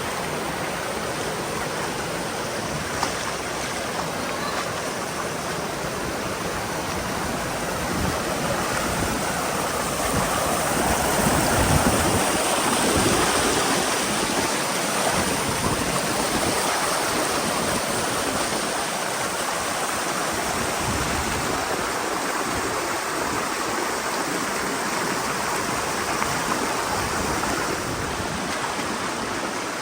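Mountain stream rushing over rocks in a gorge: a steady wash of water noise that swells a little before the middle.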